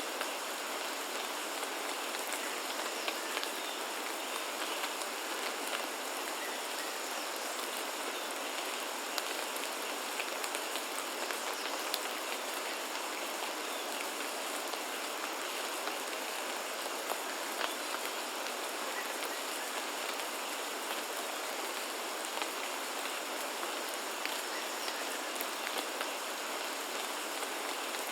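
Steady rain falling, an even hiss with scattered sharper drop hits ticking through it.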